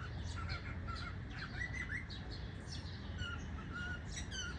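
Cockatiels chirping: a steady stream of short, overlapping calls and quick whistled chirps, over a low background rumble.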